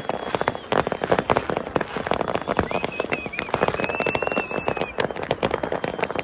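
Fireworks and firecrackers going off all around in a rapid, unbroken string of cracks and bangs. A whistling firework sounds through the middle for about two seconds.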